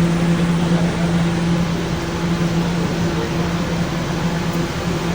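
Subway train running: a steady, even rumble with a constant low hum and no sudden events.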